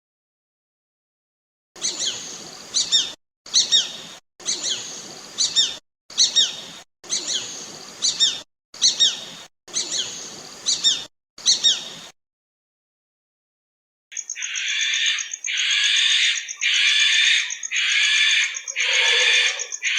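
Calls of birds of prey. First comes a series of short, sharp, high calls that fall in pitch, about eight of them each a second or so long. After a pause, a different bird calls again and again, about once a second, with a thin steady whistle above it.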